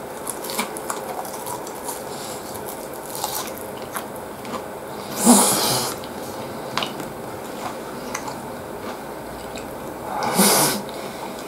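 Chewing and biting on breaded pork cutlet with egg and rice, with small crunches and mouth clicks throughout. Twice there is a louder rush of noise lasting about half a second, about five seconds in and again near the end.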